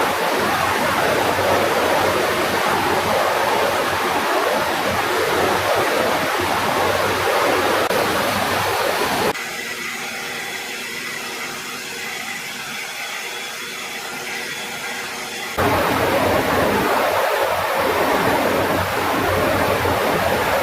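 Steady jet engine roar in edited segments. It drops abruptly to a quieter stretch with a few faint steady tones about nine seconds in, then returns just as abruptly about six seconds later.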